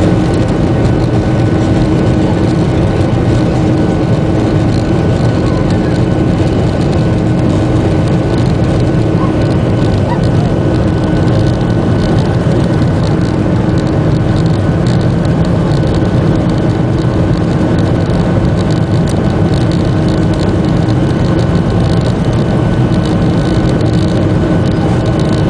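Boeing 737-800's CFM56-7B jet engines at takeoff thrust: a steady loud roar with several steady whining tones over it.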